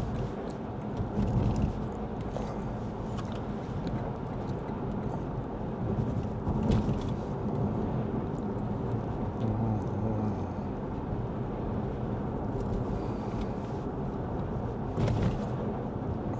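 Steady in-cabin road noise of a Lexus ES 350 F Sport driving on rain-wet roads: a tyre and engine hum, with two brief louder sounds about seven and fifteen seconds in.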